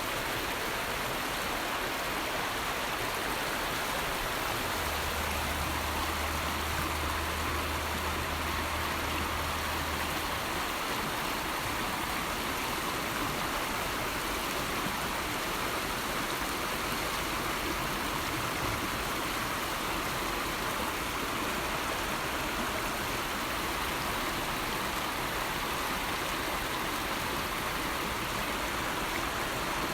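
River water flowing steadily, an even rushing sound. A low rumble joins it for several seconds from about five seconds in.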